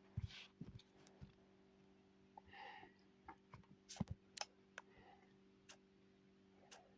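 Near silence with scattered faint clicks and a low steady hum; a faint voice briefly about two and a half seconds in.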